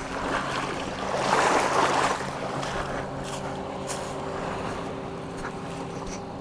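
Motorboat engine idling with a steady low hum, with a loud rush of water or wind noise about a second in.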